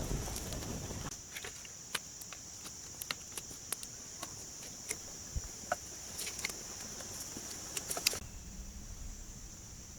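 Insects shrilling in one steady high drone that drops off sharply about eight seconds in, with scattered light clicks and taps over it. Low rustling noise fills the first second.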